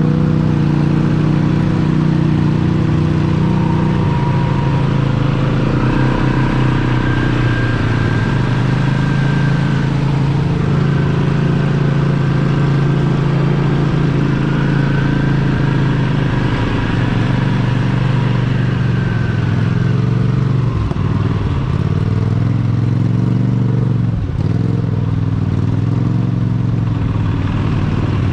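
A mega truck's big engine held at high revs under steady throttle. Its pitch dips and climbs back a few times in the last third.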